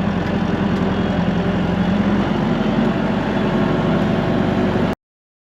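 Tractor engine running steadily, then the sound cuts off abruptly about five seconds in.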